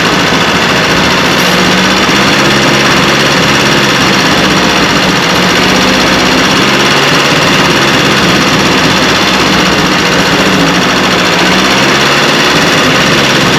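Carburetted petrol engine running steadily with a leak at the inlet manifold joint: a vacuum leak, the cause of its misfire and loss of power at about 1,000 rpm. Its drone shifts slightly in pitch a few times.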